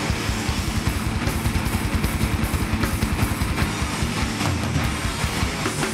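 Hardcore band playing live at full volume: distorted electric guitars over fast, driving drums.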